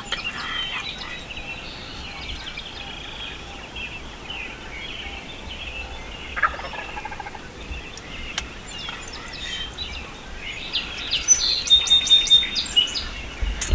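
Wild turkeys gobbling at close range, mixed with songbird chirps; the calls come loudest and quickest near the end.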